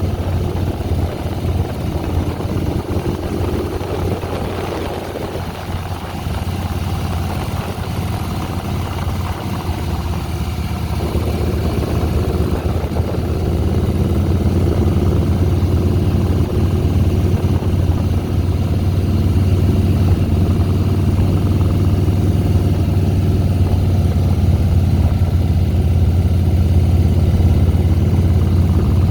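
Harley-Davidson Softail Deluxe's air-cooled V-twin engine running steadily as the motorcycle is ridden, growing louder about halfway through.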